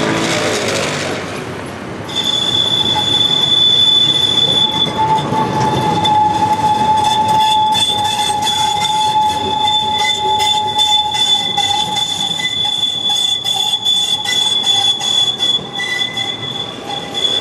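Tram wheels squealing as the car rounds a tight 90-degree curve: after a couple of seconds of rolling noise a loud, steady high-pitched squeal sets in and holds, with rapid clicking joining it in the second half.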